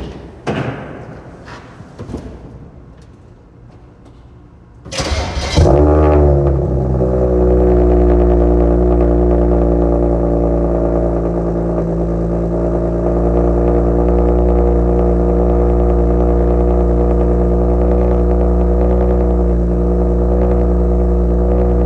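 BMW 335i's N54 twin-turbo 3.0-litre straight-six cold starting: a few clicks and knocks, then about five seconds in a short burst of cranking that catches with a brief flare in revs and settles into a steady, loud cold idle.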